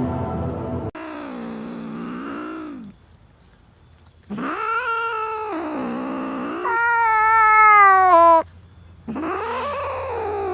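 A domestic cat yowling in four long, drawn-out calls whose pitch bends up and down, the third the loudest, sliding downward.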